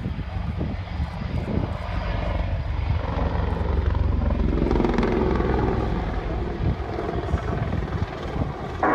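Helicopter in flight: a dense, steady rotor beat over a low engine rumble, swelling slightly around the middle.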